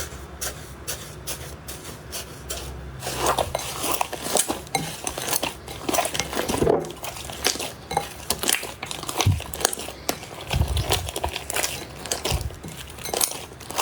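Slime being pressed and squeezed by hand, making sticky clicks and crackling pops. The clicks come fairly evenly at first, then grow denser and louder about three seconds in.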